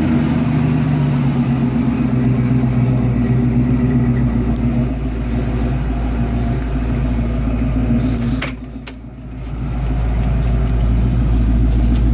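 A 1989 Ford Mustang's freshly rebuilt 306 V8 idling steadily. About eight and a half seconds in there are two sharp clicks and the engine sound briefly drops away, then the idle comes back with a heavier low rumble.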